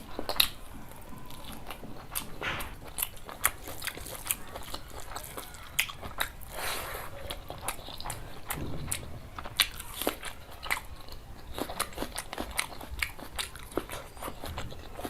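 A person eating close to the microphone: chewing and biting, with many sharp, irregular crunches and clicks.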